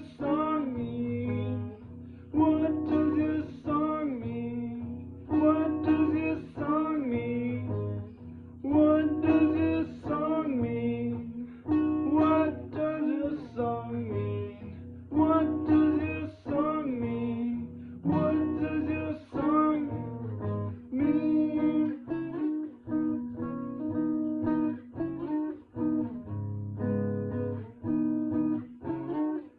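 Acoustic guitar played in a midwest emo style: picked and strummed chords in a figure that repeats about every three seconds.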